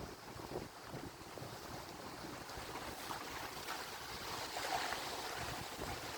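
Atlantic Ocean surf: a continuous rushing wash of waves that slowly swells in loudness.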